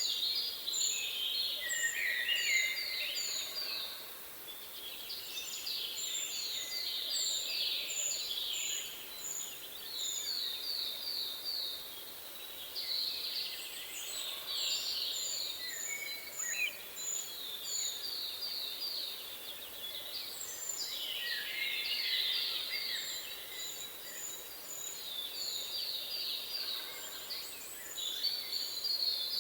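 Several birds singing together. One repeats a short phrase of quick, evenly spaced notes every few seconds, another gives a steady run of high, thin chirps about twice a second, and others warble in between.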